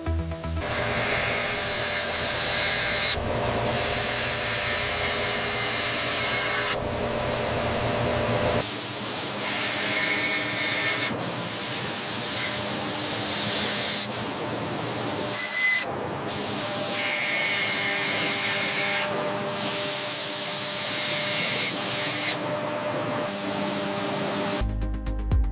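Hissing, grinding noise of workshop power tools working metal, in a string of short segments that switch abruptly every few seconds.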